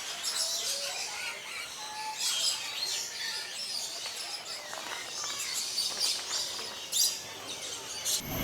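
A flock of lories and lorikeets calling in an aviary: many overlapping high-pitched chirps and shrill calls, one sharp loud call about seven seconds in.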